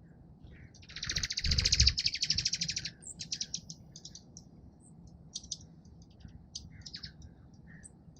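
Small songbirds at a feeder: a loud, rapid chattering trill about a second in, lasting about two seconds, with a low thump beneath it, then scattered short chirps.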